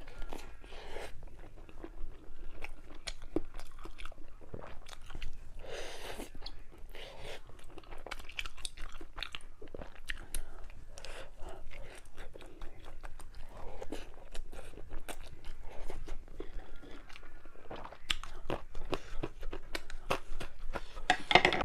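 A person chewing and biting spicy river-snail rice noodles (luosifen) with tofu skin close to the microphone. It comes as wet crunches and many irregular small clicks, with a louder bite near the end.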